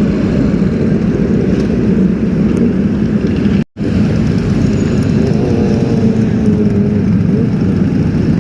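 Motorcycle engines running amid steady street traffic noise. The sound cuts out abruptly for a split second just under four seconds in, then resumes.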